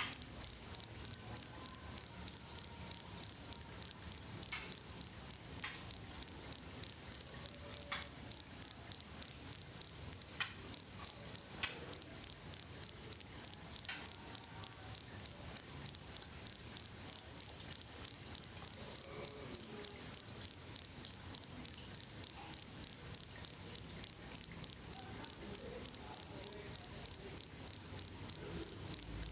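Cricket chirping: one high, steady-pitched trill repeating in even pulses, several a second, without a break.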